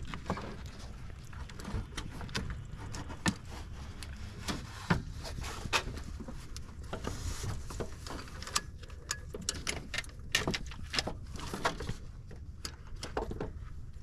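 Irregular metal knocks, clinks and scraping as a replacement starter motor is worked into position in a Honda Odyssey's engine bay, over a steady low rumble.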